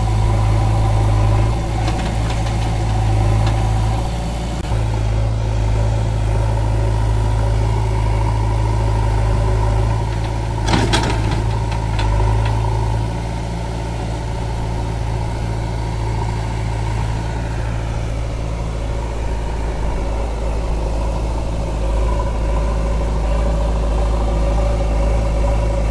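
Heavy diesel engine running steadily at low speed, with a brief clatter about eleven seconds in.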